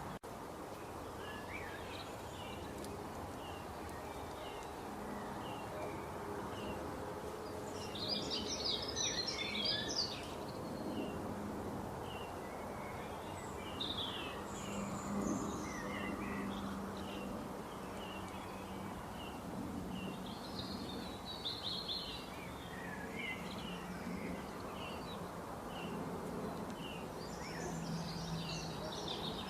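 Birds singing over a steady background hiss. A short chirp repeats about once a second, with fuller bursts of song every several seconds.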